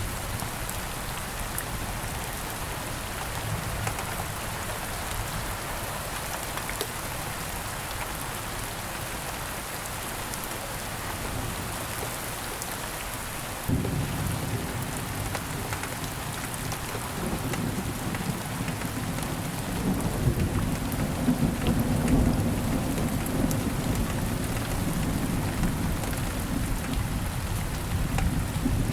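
Steady rain falling. About halfway through, a deep rumble of thunder sets in suddenly and swells, loudest a little past two-thirds of the way through, then keeps rolling under the rain.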